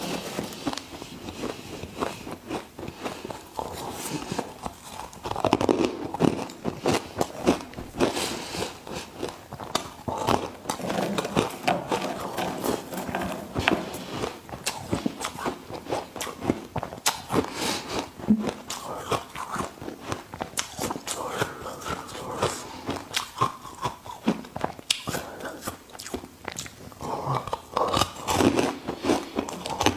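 Ice being bitten and crunched between the teeth, a dense run of sharp, irregular cracks and crunches.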